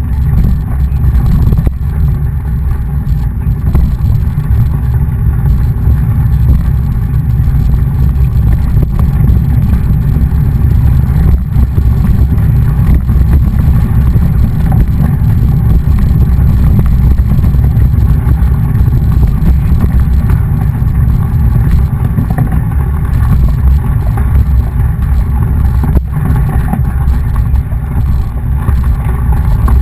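Wind buffeting the camera microphone while riding a mountain bike: a loud, steady low rumble with no pauses.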